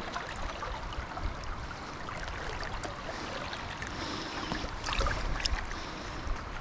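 River water flowing steadily, with a few faint clicks scattered through it.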